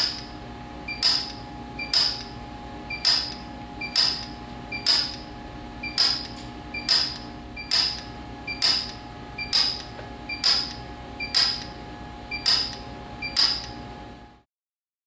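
PUK U4 micro TIG welder firing repeated single weld pulses, a sharp snap about once a second, each with a faint tick just before it, over a steady hum from the unit.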